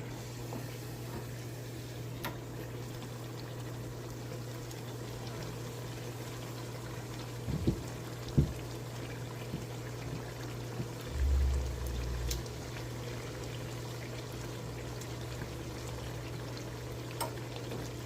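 Beignet dough frying in hot oil: a steady sizzle, with two low knocks about halfway through and a brief low rumble a little later.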